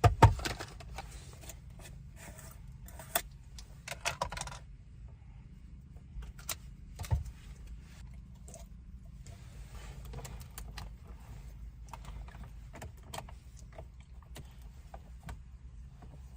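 Items being handled and rummaged through, with a dense run of rustling and clinking in the first few seconds, then scattered small clicks and rattles over a steady low rumble.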